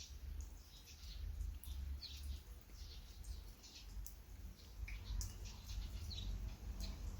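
Rain dripping and pattering in light, irregular taps, with a low rumble of wind on the microphone.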